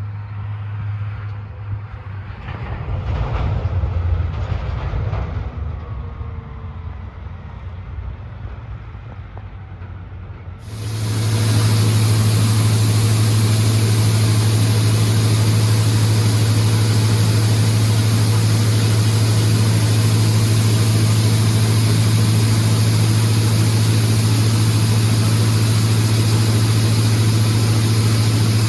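Combine harvester running with a steady engine hum. About ten seconds in, the sound jumps suddenly to a much louder, steady machine noise and holds there.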